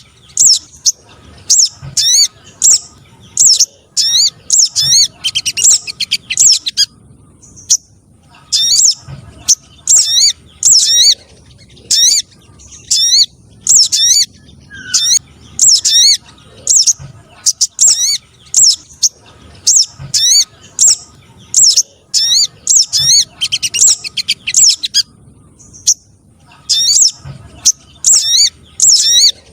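Lure recording of sogon trotol (streaked spiderhunter-type) bird calls: loud, rapid, high-pitched chirps in quick bursts of a few notes, about two bursts a second, broken by short pauses.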